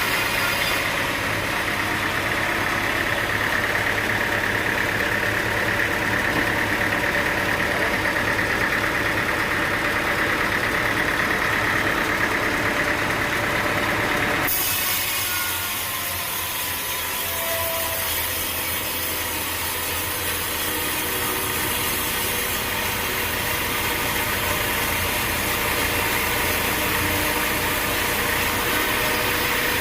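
Sawmill saw cutting through a log: a steady, loud sawing rasp over running machinery, with the sound changing abruptly about halfway through.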